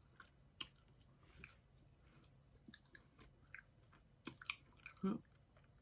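Faint mouth sounds of someone chewing candy: scattered soft clicks and lip smacks, with a few louder smacks about four to five seconds in.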